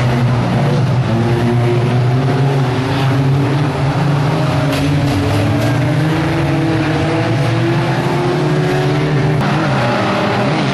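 Several 1600cc banger race cars' engines running hard together, their overlapping notes rising and falling slightly as they race.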